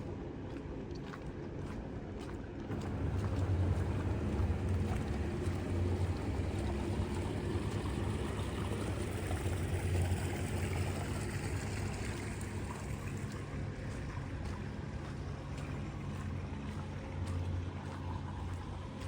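A motor vehicle's engine running steadily, growing louder about three seconds in, with a rising and fading hiss near the middle like tyres on a wet road.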